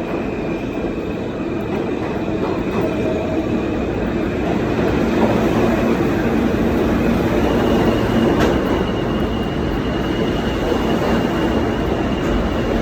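New York City subway train running on the rails: a steady rumble with a thin high whine that steps up in pitch about halfway through.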